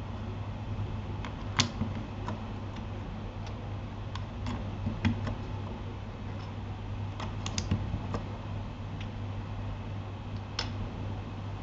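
Keystrokes on a Keychron K8 mechanical keyboard fitted with Gateron Aliaz silent switches: sparse, irregular soft clicks, a few a second at most, over a steady low hum.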